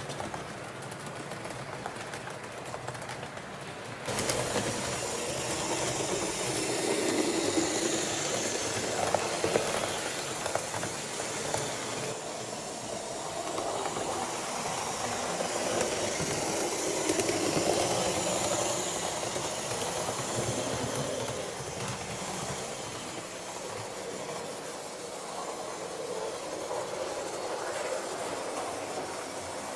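Train running on track: a steady rumble and hiss with some rail clatter, swelling and fading slowly. It gets suddenly louder about four seconds in.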